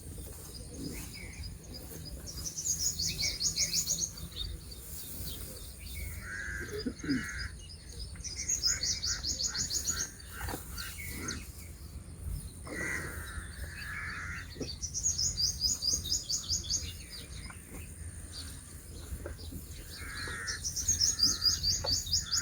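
Outdoor birdsong: a bird repeats a rapid high trill of about a second and a half, roughly every six seconds, with shorter, lower bird calls in between.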